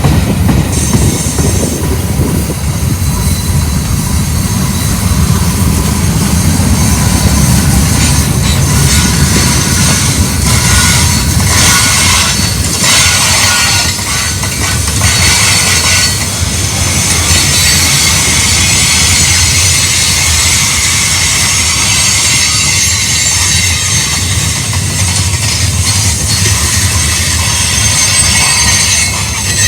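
Cars of a manifest freight train rolling past over a steady low rumble. Wheels clack over the rails and flanges squeal at a high pitch on the curve.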